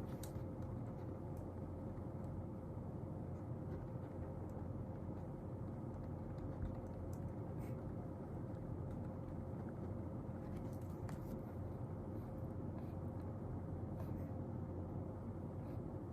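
Steady low room hum with a thin constant tone running through it, and a few faint clicks from desk work.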